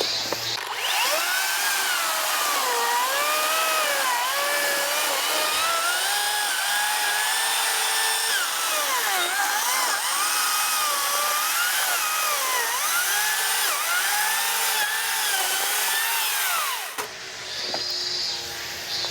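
Makita cordless chainsaw cutting through a log, its motor whine dropping in pitch as the chain bites and rising again as it frees up, over and over. It stops suddenly near the end.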